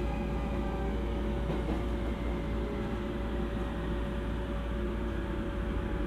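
Running noise inside a JR East E231 series electric commuter train: steady rumble of wheels on rail with a constant electric motor hum.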